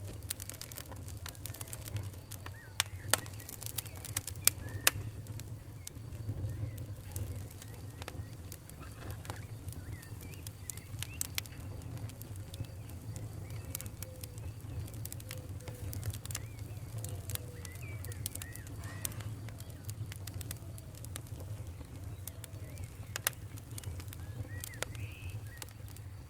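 Wood fire in a fireplace crackling, with many sharp pops and a steady low rumble of flames. There are faint short whistling chirps among the crackles, typical of steam hissing out of burning logs.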